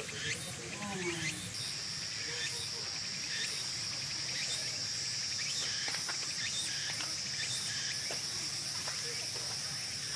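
Insects stridulating: a steady, high-pitched trill that sets in about a second and a half in and holds without a break.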